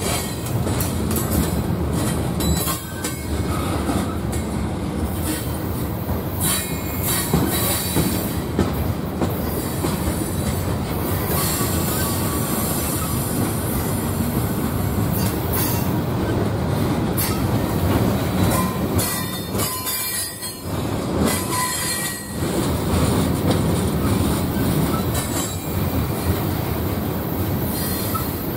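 Freight train of covered hopper cars and tank cars rolling past at speed: a steady rumble of steel wheels on rail, with high wheel squeal and rattling that come and go every few seconds.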